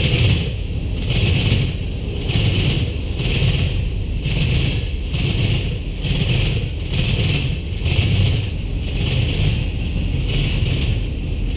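Freight cars of a CN mixed freight train rolling past at speed. The wheels and cars give a steady rumble with a clattering beat about twice a second.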